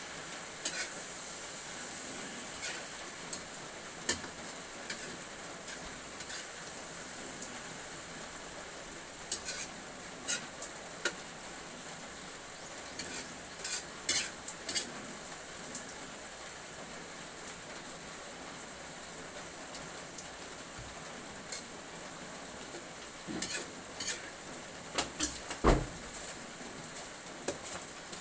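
Food sizzling steadily in a wok over a fire as it is stirred, with the spatula scraping and knocking against the pan now and then, in small clusters; the sharpest knock comes near the end.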